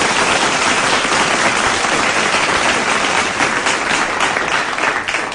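Applause: many hands clapping steadily, thinning out near the end.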